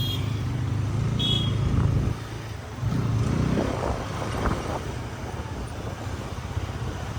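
Motorcycle running on a city road, with a steady low engine hum and traffic noise that dips for a moment a couple of seconds in. Two short high beeps sound about a second apart near the start.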